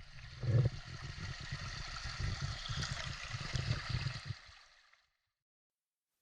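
Stream water flowing, with a low rumble underneath; it cuts off after about four and a half seconds.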